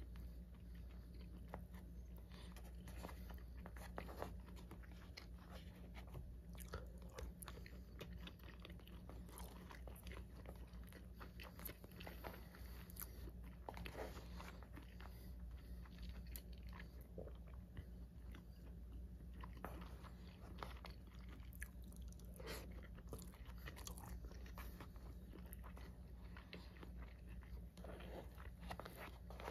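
Close-miked chewing of soy-marinated raw fish sashimi and rice, with many small sharp mouth clicks scattered throughout, over a steady low hum.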